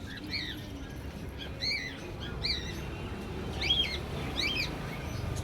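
Small birds chirping: about five short chirps, each rising and then falling in pitch, roughly one a second, over a low background rumble.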